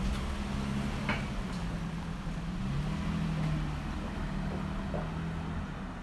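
A motor vehicle's engine running close by, a low hum that shifts up and down in pitch, with a brief sharper sound about a second in.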